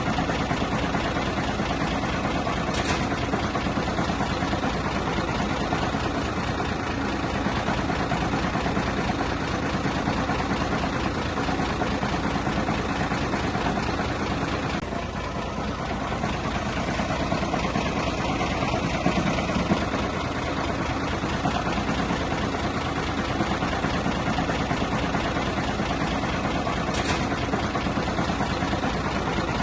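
Heavy construction machinery's diesel engine running steadily, with a dense low firing pulse; it dips slightly about halfway through.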